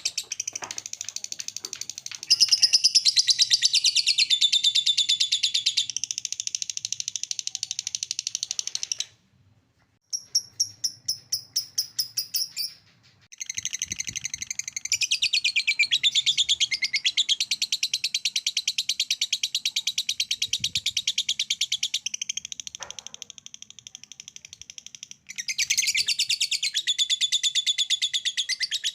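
Lovebird ngekek: a long, very fast chattering trill of high, evenly repeated notes, broken by short pauses about nine and thirteen seconds in and softer for a few seconds past the twenty-second mark.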